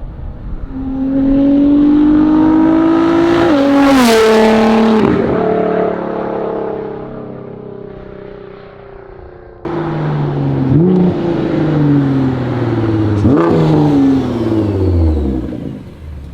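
2016 Nissan GT-R's twin-turbo V6, straight-piped, accelerating hard past, its pitch climbing and then dropping sharply as it goes by about four seconds in, then fading away. After an abrupt cut near ten seconds in, a second pass: the engine revs up again with two brief dips in pitch, then falls away.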